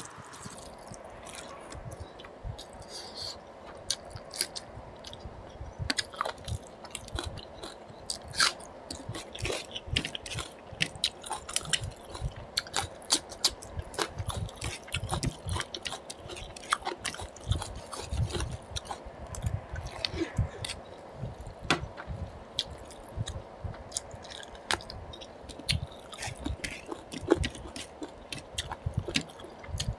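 Close-miked eating sounds of a man eating rice and mutton curry by hand: chewing and lip smacking with many irregular wet clicks, several a second, and the squish of fingers mixing rice with gravy.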